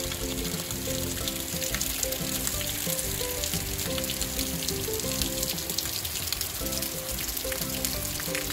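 Heavy rain pouring down on a street: a dense, steady hiss of drops with a fine crackle, with background music underneath.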